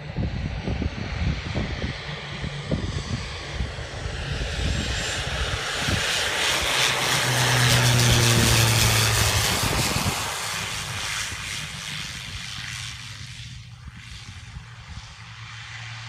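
Cessna 208 Caravan's single turboprop engine and propeller flying past low: the sound builds to a peak about halfway through with a strong low drone, then fades away.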